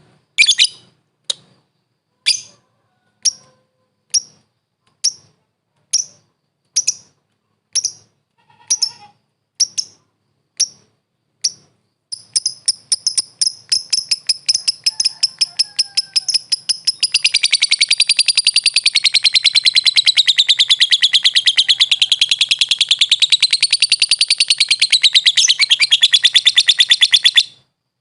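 A lovebird calls with single sharp, high chirps about once a second, coming a little faster toward the middle. It then breaks into a rapid run of chirps that becomes a long, unbroken, warbling trill and stops abruptly near the end.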